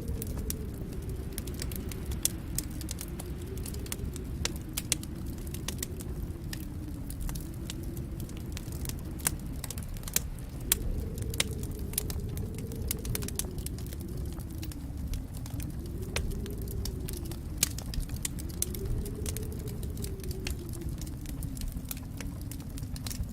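Wood fire crackling in a fireplace: frequent sharp pops and snaps over a steady low rumble of the flames, with a low hum that slowly rises and falls.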